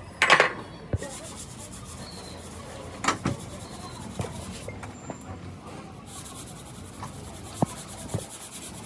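Rubbing and scraping with a few sharp knocks, the loudest just after the start and another about three seconds in.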